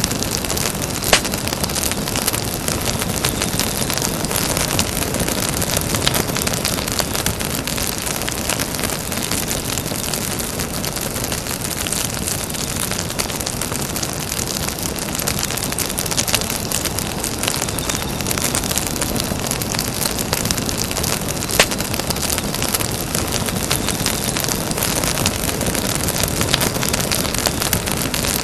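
Campfire burning with a steady crackle and hiss, with two sharper pops, one about a second in and one about two-thirds of the way through.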